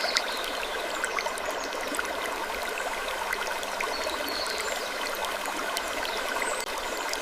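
Steady trickling, stream-like water ambience with many small clicks and a few faint, brief high squeaks. The texture repeats about every eight seconds, as a loop.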